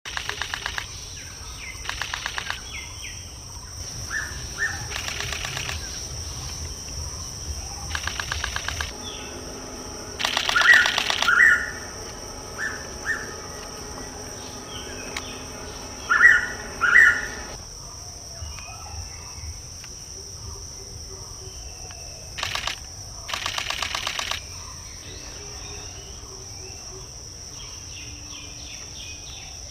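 Hooded pitta calling a clear two-note whistle, repeated several times, the loudest pairs about eleven and sixteen seconds in. Under it runs a steady high insect drone, broken by short bursts of fast clicking rattles.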